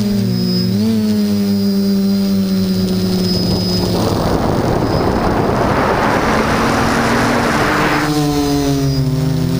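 Hoverthings HT-FPV quadcopter's electric motors and propellers droning, the pitch shifting up and down with throttle. From about four seconds in to about eight, a loud rush of wind noise on the microphone drowns the motors, then they come back.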